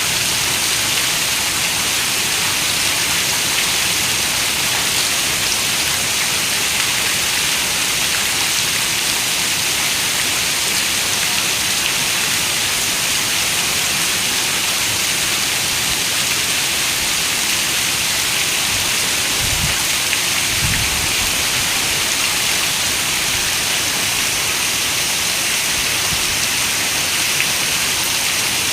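Heavy rain falling on a window: a steady, dense hiss. About two-thirds of the way in, a brief low rumble of distant thunder comes in twice under it.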